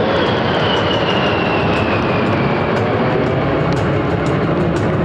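F-15E Strike Eagle's twin jet engines making a loud, steady rush of noise, with a high whine that falls slowly in pitch as the jet passes.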